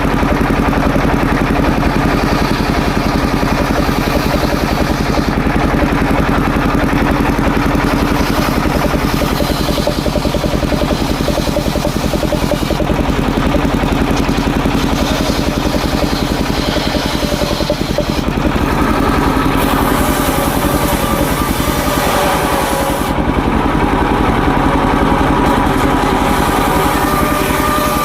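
Engine-driven homemade circular saw running steadily while ripping waru wood into battens, the engine pulsing evenly under a steady hum. About two-thirds of the way through the sound brightens for a few seconds, then settles back.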